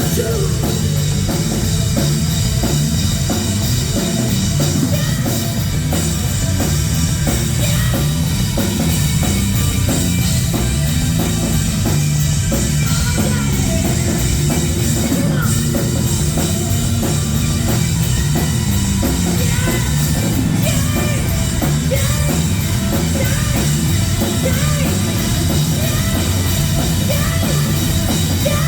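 Live rock band playing loud and steady, driven by a full drum kit and heavy bass.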